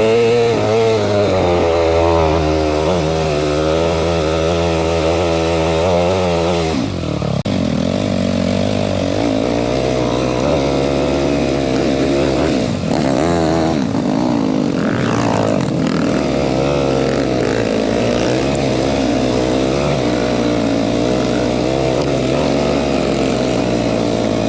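Dirt bike engine running close up, its revs rising and falling continuously, with a short drop about seven seconds in before it carries on at a steadier pace.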